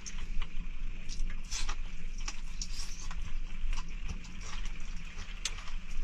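Rain pattering on the roof of a small camper: a steady hiss with irregular sharp ticks of drops landing.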